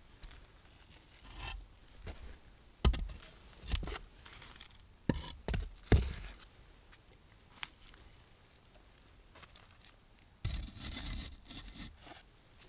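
Wood bonfire: sparse sharp pops and knocks at irregular intervals with some scraping, and a longer scraping rustle about ten seconds in.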